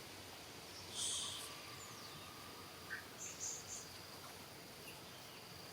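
Outdoor animal ambience: a steady high insect-like drone, with a short shrill call about a second in and a few brief high chirps a couple of seconds later.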